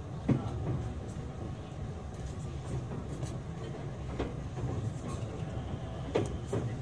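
Cabin running noise of a JR West 227 series electric train car: a steady low rumble with a few sharp clacks from the wheels on the track, the loudest just after the start and a close pair near the end.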